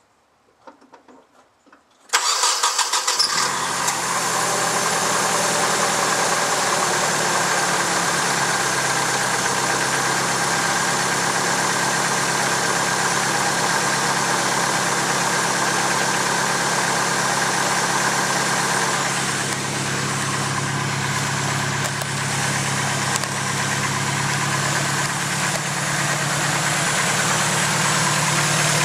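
Turbocharged Nissan KA24DE four-cylinder engine starting about two seconds in, catching after a brief rough moment, then idling steadily. It has a tick that the owner takes for lifter tick, which appeared a few months after a full engine build.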